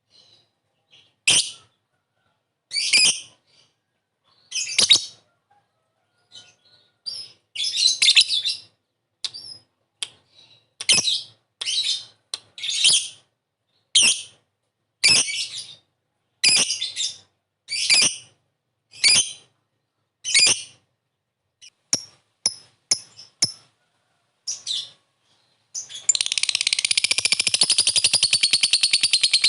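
Lovebird calling: short, sharp high chirps roughly every second or two with silent gaps between. About 26 seconds in, it breaks into a continuous rapid chattering trill, the long "ngekek" chatter.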